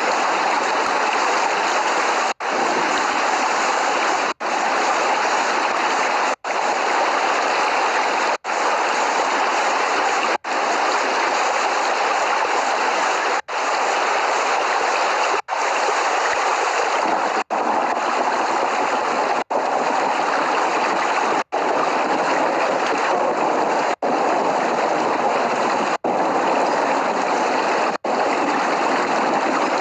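Steady heavy rain, a dense even hiss of falling water with no thunder, broken by a very brief dropout about every two seconds.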